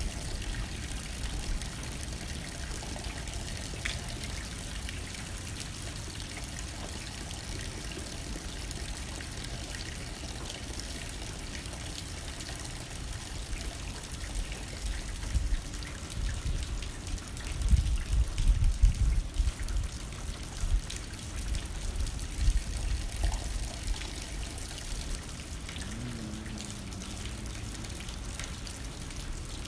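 Rain hitting a window with wind blowing, a steady hiss of water. The wind gusts stronger for several seconds in the middle.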